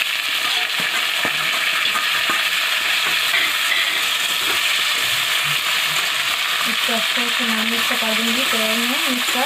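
Jackfruit pieces sizzling steadily in hot oil in a kadhai while a metal spatula stirs them, with a few sharp knocks of the spatula against the pan in the first half.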